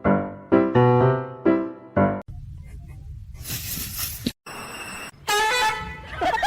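Piano music, single notes struck about twice a second, which cuts off about two seconds in. Quieter mixed sounds follow, with a hiss and a short pitched, wavering call near the end.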